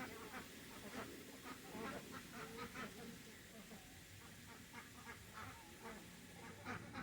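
Ducks quacking in short calls, many in the first few seconds, fewer in the middle, and a few more near the end.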